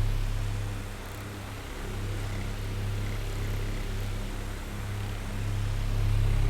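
Oscillating electric fan running with a steady low motor hum and soft airflow hiss. It turns quieter about a second in and swells back up near the end, as the fan's sweep carries it away and back.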